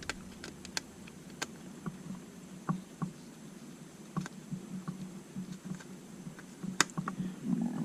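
Light clicks and taps of small plastic drone parts and tiny screws being handled and fitted with a screwdriver, scattered and irregular, with one sharper click near the end.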